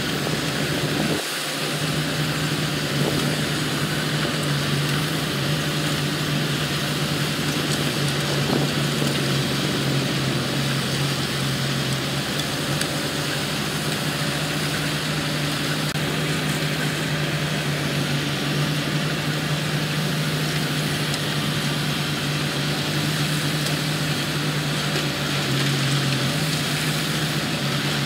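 Diesel engine of heavy construction equipment running steadily with a constant low hum, dipping briefly about a second in.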